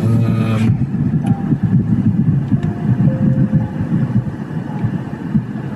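Vehicles in stopped traffic, a steady low engine rumble, with a short pitched sound at the very start.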